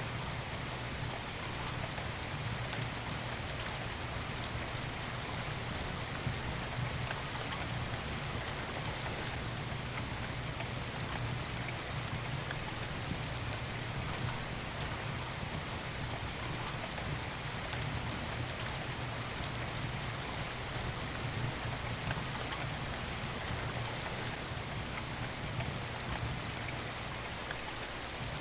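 Steady rain falling on a surface, an even hiss with scattered light drop ticks.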